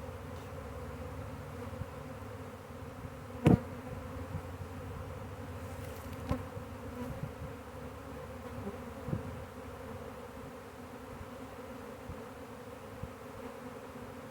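Honey bee swarm buzzing steadily, the hum of many bees massed on and around the hive boxes. One sharp knock about three and a half seconds in, with a few faint ticks later.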